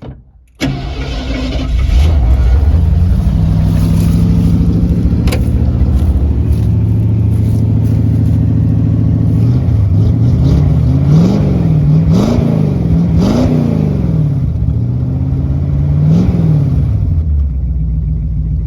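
1968 Ford Torino GT's V8 engine starting about half a second in, catching at once and running fast. Revved four times in quick blips, it then settles to a lower idle near the end. It sounds good.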